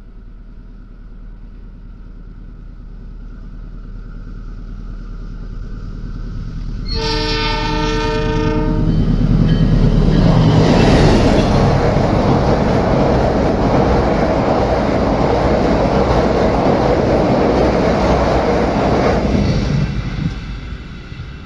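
Diesel locomotive hauling a passenger train approaches with its engine rumble growing, and sounds its horn for about two seconds around seven seconds in. The carriages then pass close with loud wheel-on-rail noise, which fades near the end.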